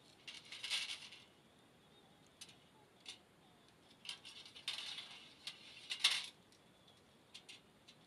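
Small clinks, ticks and rustles at a wood fire burning in a stainless folding fire grill. They come in two short flurries, one near the start and a longer one in the second half, with single ticks between.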